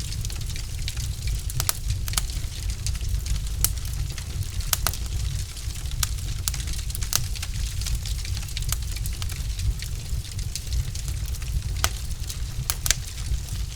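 Wood logs burning in a fireplace, crackling: irregular sharp pops and snaps over a steady low rumble, with a cluster of louder snaps near the end.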